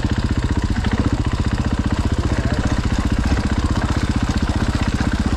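Husqvarna FE 501's single-cylinder four-stroke dirt-bike engine running steadily at low revs, with an even thump of about a dozen beats a second.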